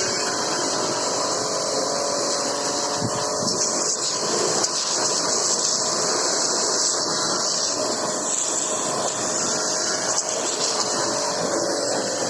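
High-pressure water jet from a pressure washer spraying mud off the steel discs of a disc harrow: a steady, loud hiss of spray over a steady machine hum.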